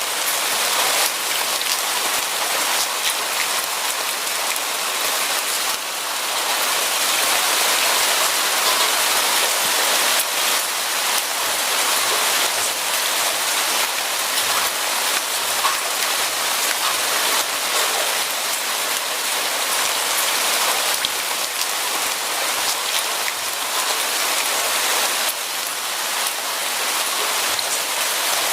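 Steady rain falling on a surface, a dense patter of drops with no let-up.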